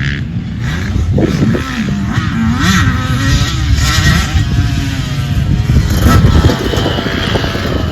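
Motocross dirt bike engine running and revving up and down as it is ridden, with heavy low rumble.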